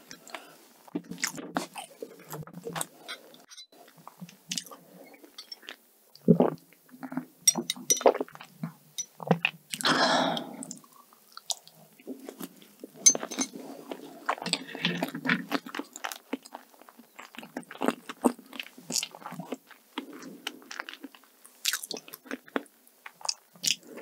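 Close-miked chewing and wet mouth sounds of a person eating soft cheesecake from a wooden fork, with many small clicks and smacks. About ten seconds in there is one longer, louder noisy sound.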